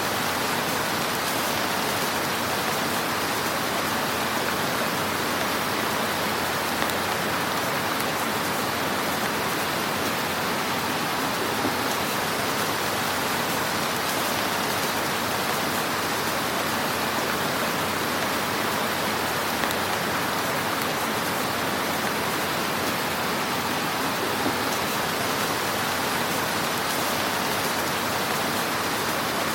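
Wood fire crackling in a fireplace: a steady dense hiss of small crackles with a few sharper pops now and then.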